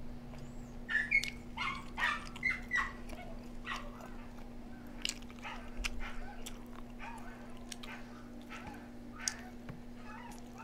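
A small dog whining and yipping in a cluster of short cries, mostly in the first three seconds, with a few fainter ones later.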